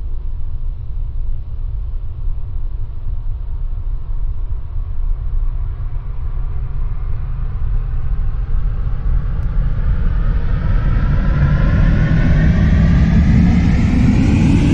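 Express passenger train approaching and passing on an electrified main line. Its noise grows louder from about halfway through, with a rising sweep in pitch as it draws close, over a steady low rumble.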